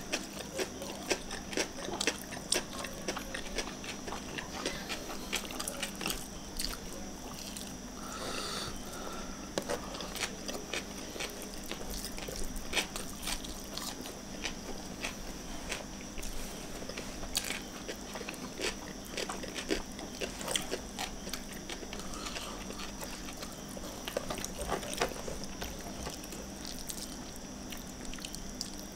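Close-miked eating: chewing and lip-smacking of rice, fried fish and sambal eaten by hand, with many small wet mouth clicks. A faint steady hum sits underneath.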